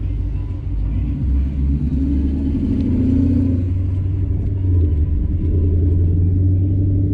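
Ford Mustang GT's V8 through a full aftermarket exhaust, a steady low rumble at low revs that grows louder about a second in as the car moves off.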